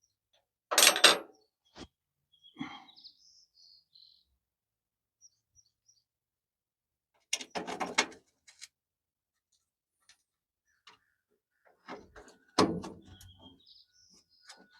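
Three short bursts of clattering knocks from hand work on a hood latch, with a bird chirping faintly in the pauses between them.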